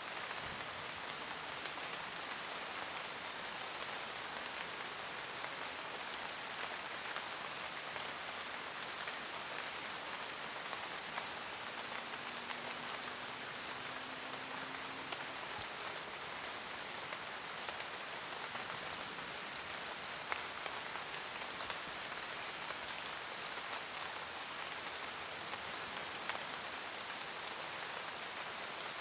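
Steady forest rain: a dense, even patter of rainfall with scattered single drops ticking sharply throughout.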